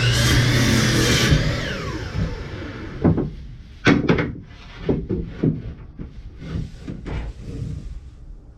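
A power saw cutting a cedar fence picket, then switched off and winding down with a falling whine a little over a second in. Then a run of separate knocks and clatters as the cut wooden pieces are handled and set down.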